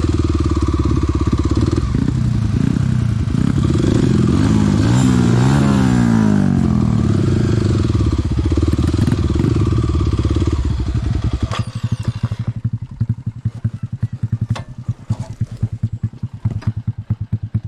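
Small dirt bike engine running and revving up and down, then dropping to a pulsing idle about eleven seconds in.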